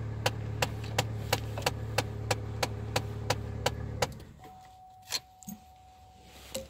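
2003 Chevrolet Cavalier's engine idling with a loud, regular knock about three times a second, of unknown cause. About four seconds in the engine stops, followed by a click and a faint steady tone.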